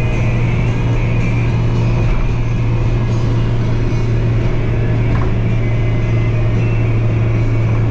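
Small truck running down the road, heard as a steady engine and road drone with a strong low hum that holds even throughout.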